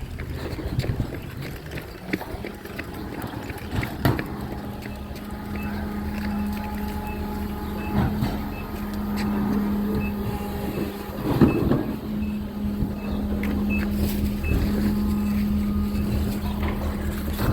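Recycling truck running, with a steady low hum setting in about four seconds in, a few clanks, and faint high beeps repeating about twice a second.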